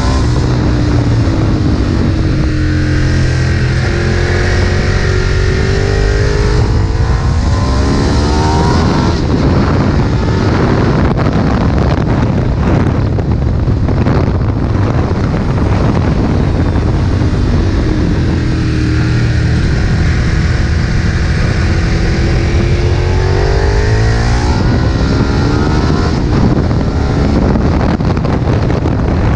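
Ducati 1098's L-twin engine at speed on track, its pitch falling and rising again and again as the rider rolls off, brakes and accelerates through the gears.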